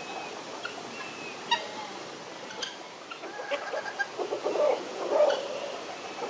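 Game birds of the chicken family calling: scattered short, sharp calls, with a denser run of lower calls about four to five seconds in.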